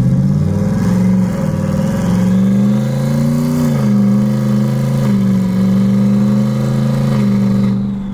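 Turbocharged 2018 Ford Mustang GT's 5.0 V8 running at light throttle while driving. The engine note climbs gently for the first three seconds or so, drops a little, then holds steady.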